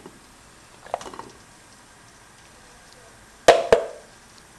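Kitchenware being handled at a double boiler: a few light taps about a second in, then two sharp knocks close together near the end with a brief ring.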